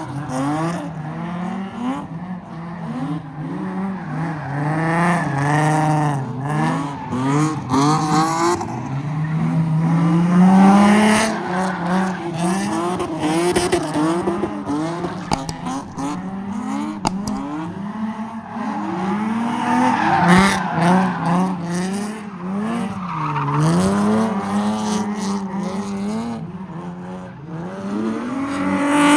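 Car engine revving up and down over and over with tyres squealing, as a car spins in a pit.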